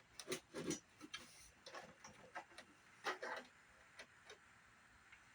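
Faint, irregular light plastic clicks and knocks from hands working at a CRT monitor's stand to get it off, bunched in the first three and a half seconds and thinning out after.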